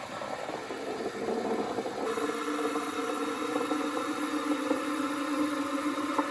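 Saeco Spidem Cappuccino Instantly machine running as it dispenses: a noisy hiss at first, then about two seconds in a steady pump hum sets in and holds.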